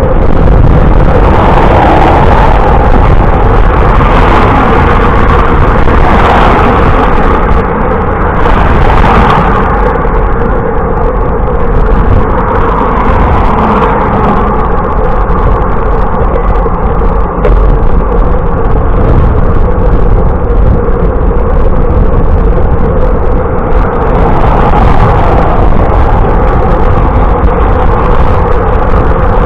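Loud, steady rush of wind and road noise on the microphone of a camera riding along on a bicycle, swelling a little every few seconds.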